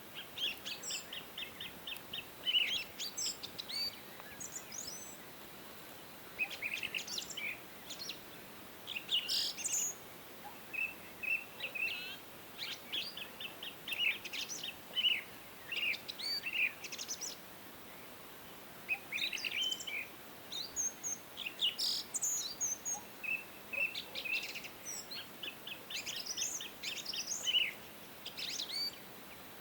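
Several songbirds chirping and singing: many short, high-pitched chirps and quick trills in overlapping bursts, with brief lulls between them.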